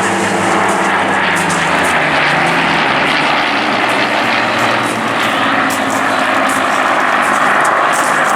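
Spitfire fighters' V12 piston engines running loud and steady as the aircraft fly past, the engine note dropping in pitch about two seconds in.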